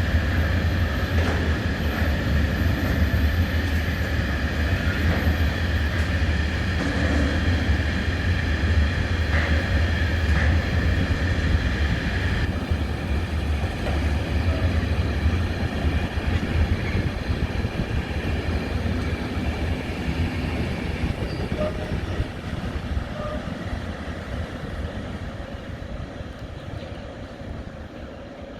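A train running past, a steady rumble with a faint whine, fading away over the last several seconds.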